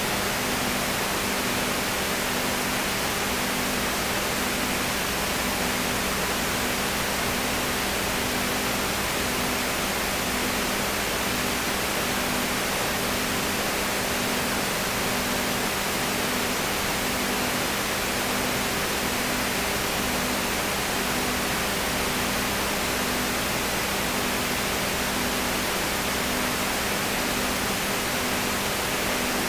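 Steady hiss, with a low hum that pulses on and off at an even pace underneath it.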